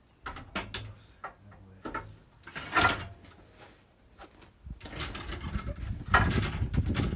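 Workshop hand-tool noise on car parts: sharp metallic clicks and a scrape, then a fast run of rattling clicks like a ratchet being worked from about the middle on.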